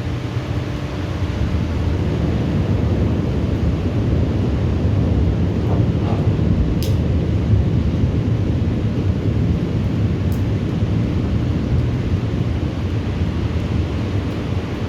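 Thunderstorm: a steady low rumble that swells a little through the middle, with two faint clicks partway through.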